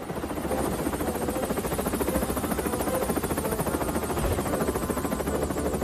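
Helicopter rotor sound effect: a steady, rapid chopping beat.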